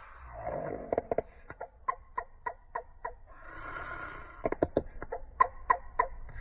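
A bird making a run of short, sharp clicking calls, about three a second, with a soft hissing chatter in the middle; the clicks come stronger in the last couple of seconds.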